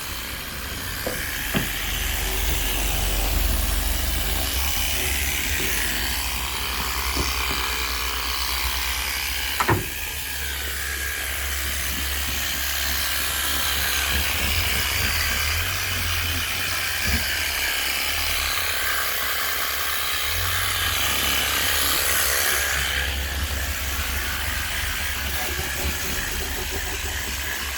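Water spraying steadily onto a car's bodywork as the car is washed, with a sharp knock about ten seconds in.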